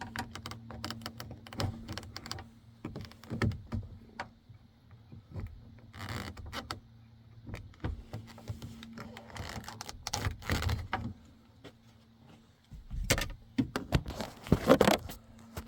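Plastic trim and clips of a truck's interior door panel being pried and handled: scattered clicks, knocks and scraping, loudest a couple of seconds before the end, over a faint steady hum.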